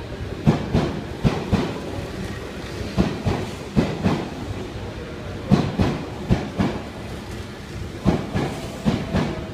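Tokyu 8500 series electric train departing the platform, its cars rolling past close by. The wheels clatter over the rail joints in clusters of clicks about every two and a half seconds as each pair of bogies passes, over a steady rumble.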